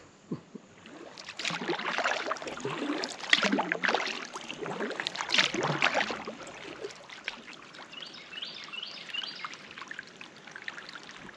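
Kayak paddle strokes splashing and dripping water, irregular and strongest in the first two-thirds, then quieter. Near the end comes a short run of high, quickly repeated chirps.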